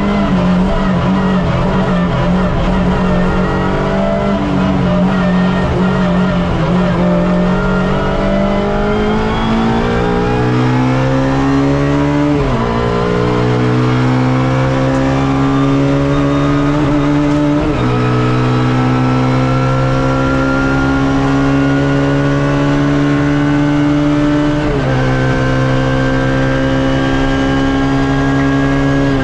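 Suzuki Swift race car's engine heard from onboard, running fairly steadily for several seconds, then accelerating hard with the revs rising through the gears. There are three quick upshifts, each a sudden drop in pitch: the first about twelve seconds in, then two more roughly five and seven seconds apart.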